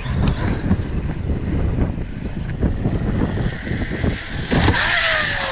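Electric RC car running, its motor whine rising to a loud pass and falling in pitch near the end, over a steady low rumble.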